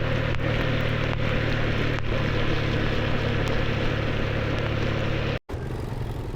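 Motorcycle engine running steadily under way, a low drone with wind and road noise on the microphone; the sound cuts out for an instant about five seconds in and comes back rougher.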